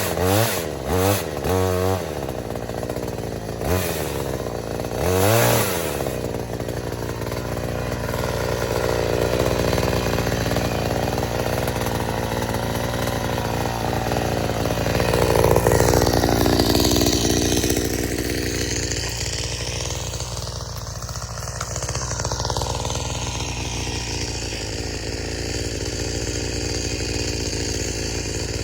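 46cc petrol chainsaw revved in several short bursts, then held running at high revs while cutting willow, its engine note dipping and recovering as the chain bites.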